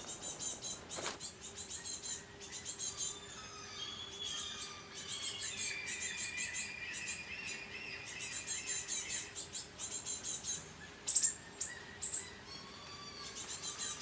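Woodland birds singing together: rapid high chirps and trills over whistled, gliding phrases, with a few sharp, louder chips about eleven seconds in.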